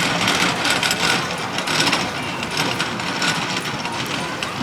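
Steam traction engine running: a steady mechanical clatter and hiss.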